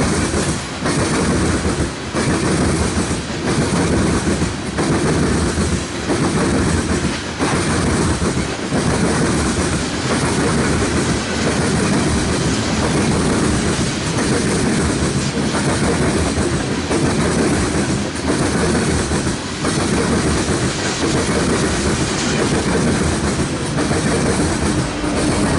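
Freight train rolling past close by, its cars' wheels clattering over the rail joints in a steady, regular clickety-clack.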